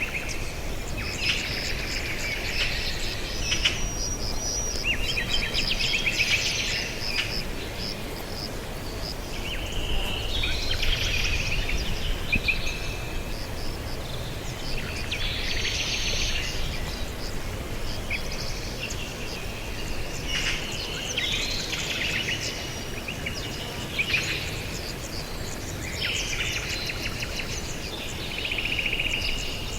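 Several songbirds chirping and trilling, with short calls and rapid trills overlapping one another throughout, over a steady low background rumble.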